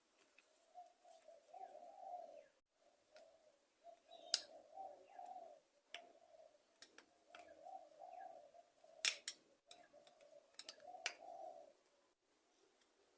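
A dove cooing over and over in phrases of about a second each, with short gaps between them. A few sharp clicks, the loudest about four and nine seconds in, come from small metal parts and tools being handled.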